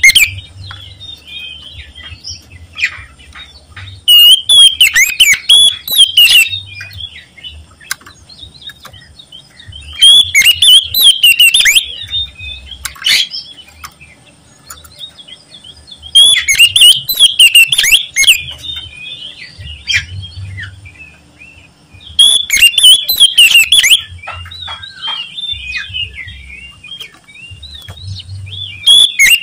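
Oriental magpie-robin singing: loud bursts of rapid, varied whistled song, each about two seconds long and coming roughly every six seconds, with quieter twittering in between.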